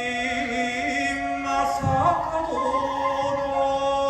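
Kagura music: a male voice chanting a sung verse in long held notes over the accompaniment, with a low thump about two seconds in.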